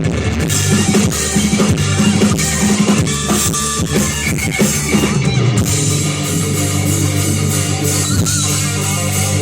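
Live band playing loud rock music, with the drum kit's bass drum and snare to the fore.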